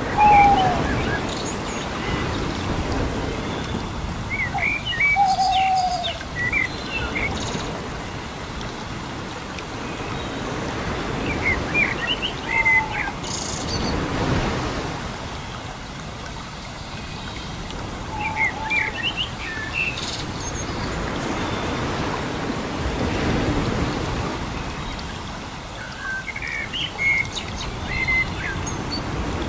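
Birdsong: a bird repeats a short phrase of quick chirps with a lower whistled note every five to seven seconds, over a steady rushing noise like running water.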